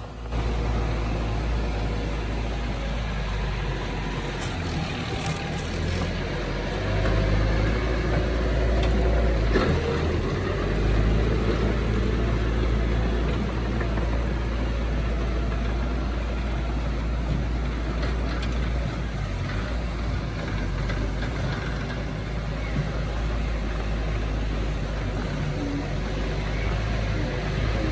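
Heavy diesel earthmoving machinery running steadily with a deep low rumble. It gets a little louder for a few seconds about a quarter of the way in.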